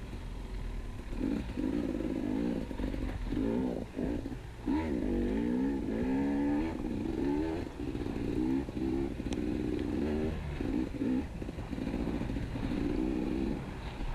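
KTM 250 EXC enduro motorcycle engine being ridden off-road, revving up and down over and over, its pitch rising and falling with the throttle and gear changes.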